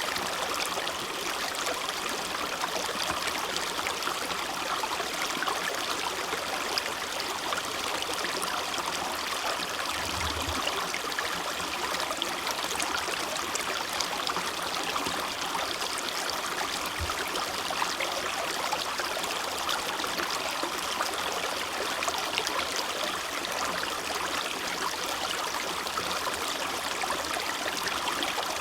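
Creek water running steadily, a continuous rushing and trickling flow.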